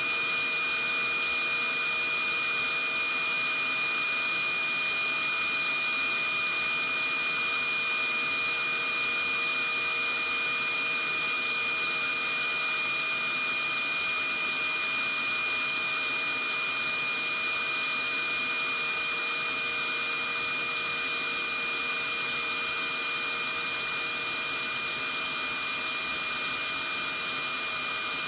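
Vacuum cleaner running steadily: an even rushing hiss with a constant high-pitched whine over it, unchanging throughout.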